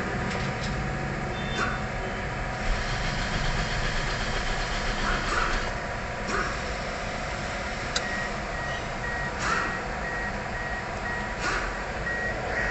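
A vehicle engine running steadily amid traffic noise, with a few short sharp knocks, and a repeated high beep, about two a second, that starts about two-thirds of the way through.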